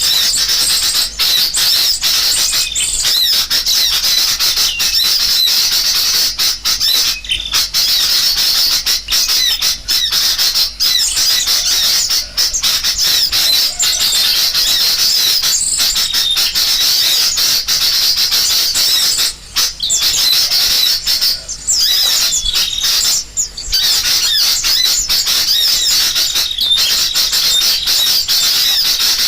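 Recorded bird-lure track of sooty-headed bulbuls calling agitatedly, mixed with the calls of small songbirds. It is a dense, continuous chatter of overlapping shrill chirps and squawks, with no break.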